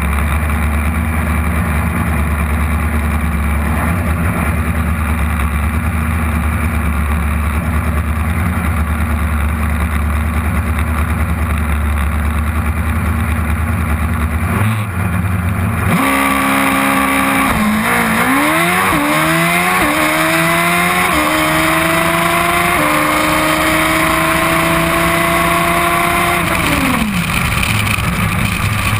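Kawasaki modified drag bike's engine idling steadily on the start line for about the first half. It then launches and revs up through several quick upshifts, the pitch climbing and dropping back at each gear change. Near the end the throttle closes and the revs fall away.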